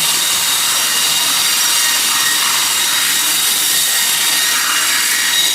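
Sawmill saw cutting steadily through a teak log: an even, high-pitched hiss with a faint steady whine.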